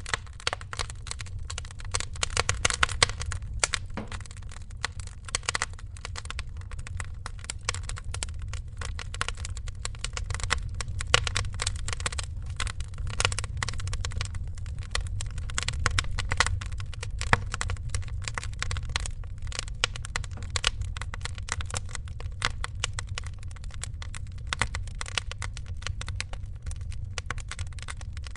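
Wood fire crackling in a fireplace: dense, irregular snaps and pops over a steady low rumble of burning.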